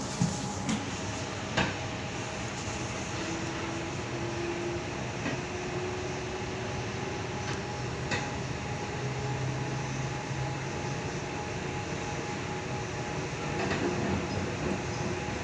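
Interior running noise of a Tangara electric suburban train at speed: a steady rumble with a faint motor hum. There are a few sharp clicks in the first two seconds, and it gets louder near the end.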